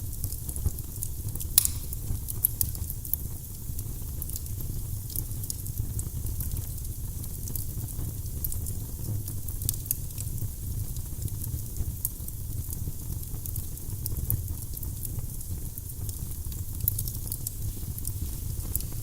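Firewood burning in a fireplace: a steady low rumble of flames with scattered crackles and pops, and one sharper crack about a second and a half in.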